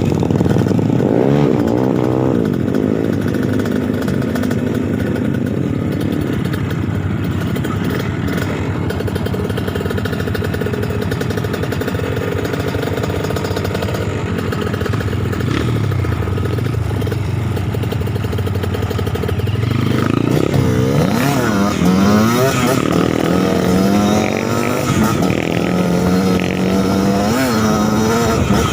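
Suzuki TS 125 two-stroke trail bike engine running and revving, its pitch rising and falling again and again, with quicker, sharper revs in the last third.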